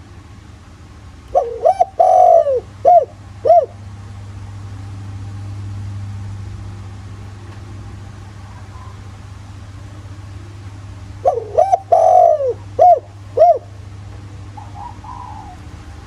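Spotted dove cooing twice, about ten seconds apart. Each phrase is a quick run of four or five arching coos, with a steady low hum underneath.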